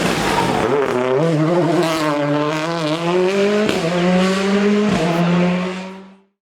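Rally car engine accelerating hard, its pitch climbing, with two short breaks at gear changes about four and five seconds in, then holding a steady high note before fading out quickly near the end.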